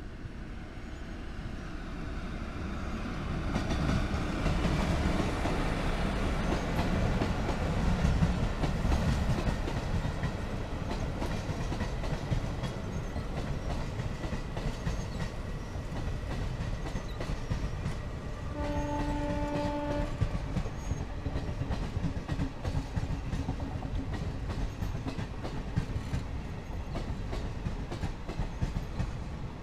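Indian Railways passenger train passing close: a loud rumble of coaches and the rhythmic clickety-clack of wheels over rail joints. The rumble builds over the first few seconds and then holds steady. About two-thirds of the way through, the locomotive horn sounds once for about a second.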